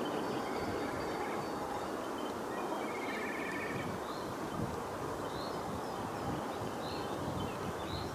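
Small songbirds chirping: a short rapid trill about three seconds in, then a string of brief rising chirps, over a steady outdoor rush of background noise.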